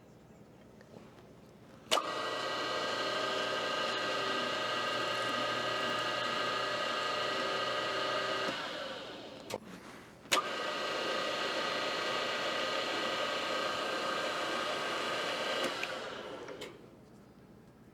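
A shop machine's electric motor is switched on with a click and runs steadily for about six seconds, then winds down. It is started again about a second later and runs for another five seconds or so before winding down.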